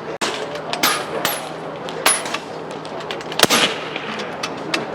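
PCP air rifles firing on a benchrest line: a string of sharp, irregularly spaced shots from several guns, about five loud ones and several fainter ones.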